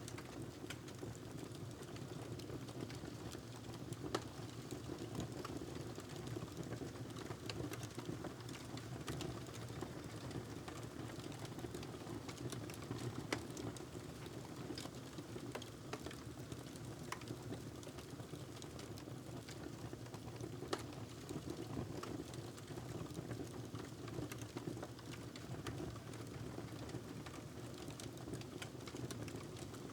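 Wood fire crackling in a fireplace: a steady low rush with many small sharp crackles and a few louder pops.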